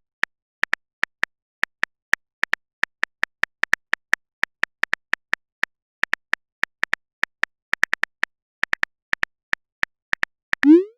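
Smartphone keyboard typing sound effect: short, sharp taps at about three to four a second with uneven gaps, as a message is typed out. Near the end comes a short rising swoop, a message-sent alert.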